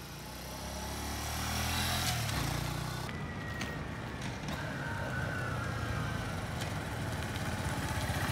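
Motorcycle engine running as a learner rider rides off and shifts: the engine note swells, then drops in pitch about two seconds in, the shift going into neutral instead of down a gear. The engine then runs steadily and grows louder near the end.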